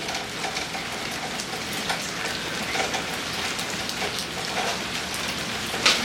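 Steady rain falling: a continuous hiss with scattered ticks of drops.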